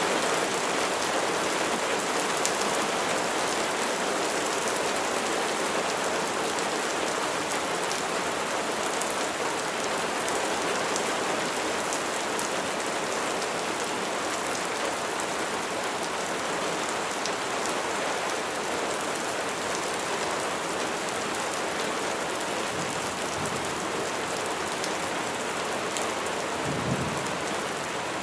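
Steady heavy rain falling on a surface, with individual drops ticking through the hiss. A brief low rumble of distant thunder comes near the end.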